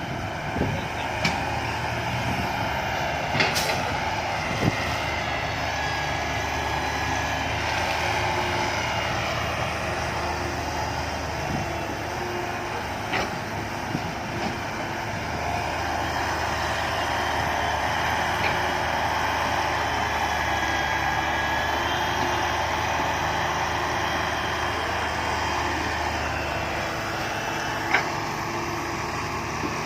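Six-wheel dump truck's diesel engine running steadily, its low drone rising and easing back a few times, with a few sharp knocks.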